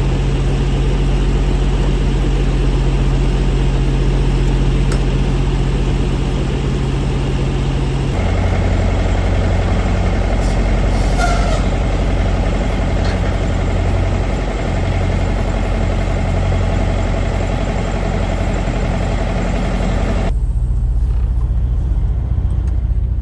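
Semi truck's diesel engine running steadily, with a low drone. The tone of the sound changes abruptly about eight seconds in and again about twenty seconds in.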